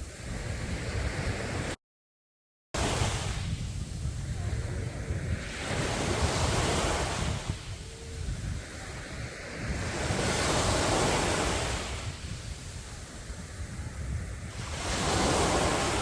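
Sea waves breaking and washing up a beach, the surf swelling and easing every few seconds, with wind on the microphone. About two seconds in, the sound cuts out completely for about a second, then returns.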